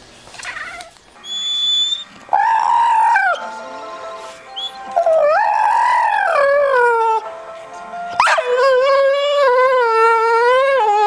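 Dog howling in three long drawn-out calls; the last is lower and wavers up and down.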